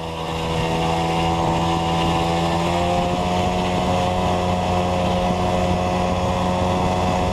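Small moped engine running under throttle as it climbs a hill. Its pitch rises over the first three seconds and then holds steady.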